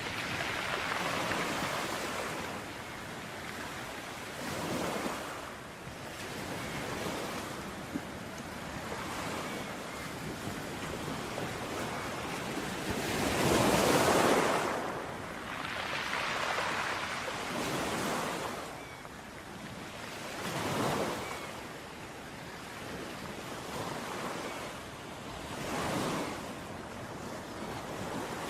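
Ocean waves breaking and washing up on a beach, in slow surges every few seconds, with the biggest wave about halfway through.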